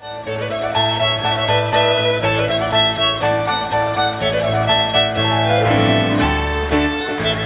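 Live contra dance band, fiddle and piano, playing a lively reel, with the fiddle carrying the melody over a steady piano bass. There is a momentary dropout at the very start.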